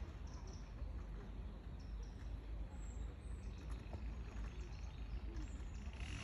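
A few faint, short, high bird chirps over a steady low outdoor rumble.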